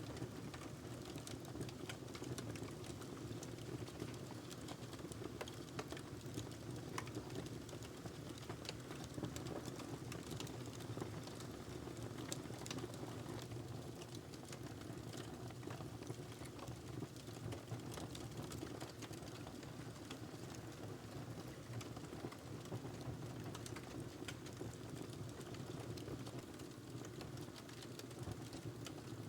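Wood fire burning in a fireplace, crackling with frequent small sharp pops over a steady low rush of the flames.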